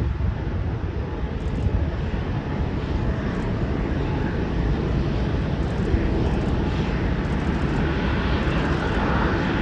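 Boeing 737-800's CFM56-7B turbofan engines running at takeoff thrust: a steady, dense rush of jet noise that grows a little brighter near the end.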